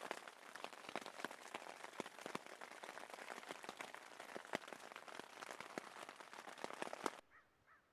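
Rain pattering on a tent, heard from inside: a steady hiss with dense, irregular drop ticks. It cuts off suddenly near the end.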